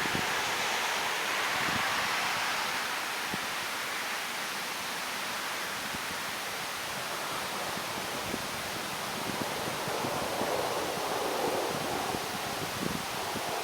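Steady outdoor background hiss, swelling slightly at times, with a few faint soft clicks.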